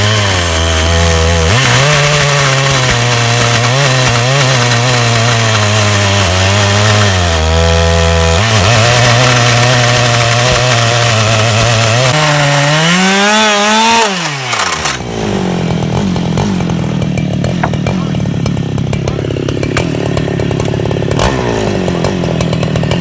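Two-stroke chainsaw on a portable chainsaw mill ripping a plank lengthwise from a log, its engine pitch wavering under load. About thirteen seconds in, the revs climb sharply as the cut comes through, then the engine drops back to a lower, steadier run.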